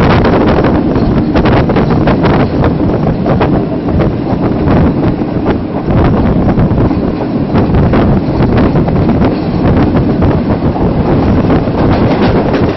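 Loud wind rushing over the microphone from the open window or door of a moving passenger train, with the wheels knocking over the rail joints.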